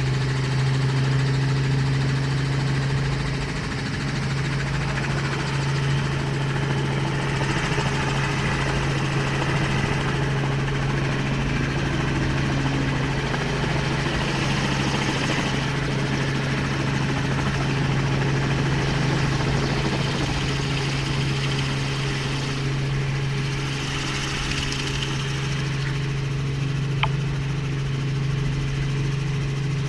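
Helicopter running with a steady drone that does not change, with a single short click near the end.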